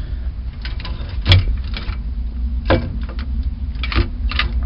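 Scattered clicks and knocks, the sharpest about a second in, over a steady low rumble: handling noise from tools, flashlight and camera being shifted around.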